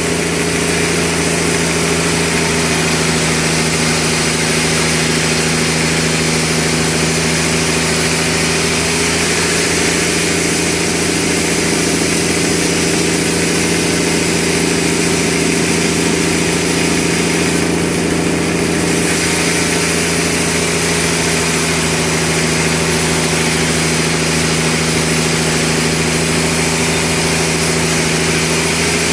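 Sawmill machinery running steadily: a constant engine-like drone with an even hum that holds the same pitch and loudness throughout.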